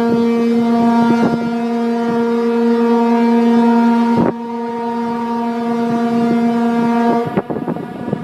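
Ferry's ship horn sounding one long, steady, loud blast that cuts off about seven seconds in, with wind buffeting the microphone.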